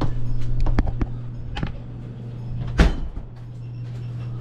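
A few light clacks and knocks, then one louder thud almost three seconds in, over a steady low hum.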